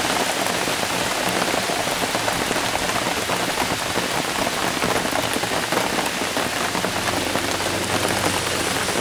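Steady rain falling, a dense even patter of drops that holds without letup.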